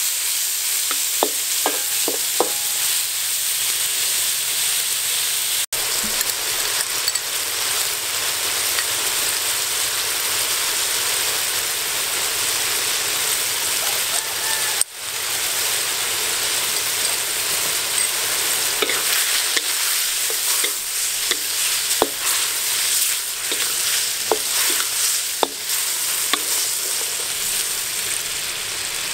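Seafood pieces stir-frying in a hot wok: a steady sizzle, with a wooden spatula scraping and tapping against the pan in short irregular clicks.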